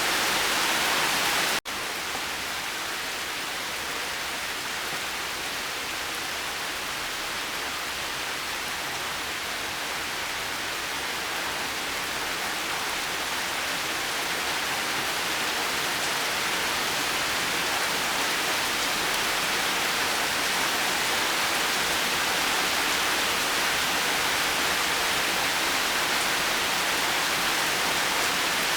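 Steady rain falling, an even continuous hiss without distinct drops or thunder. About a second and a half in, the sound cuts out for an instant and resumes a little quieter, like a splice in the recording.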